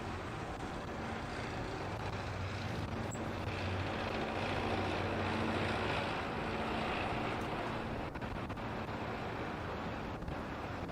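Wind buffeting the microphone in a blizzard, under the low hum of a vehicle that swells to its loudest about halfway through and then fades as it passes.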